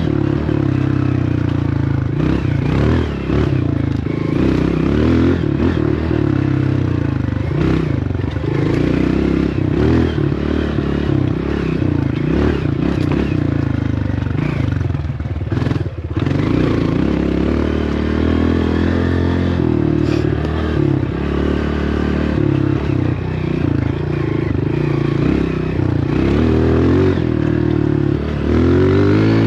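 Dirt bike engine running while riding, the revs rising and falling, with a brief drop in the engine sound about sixteen seconds in.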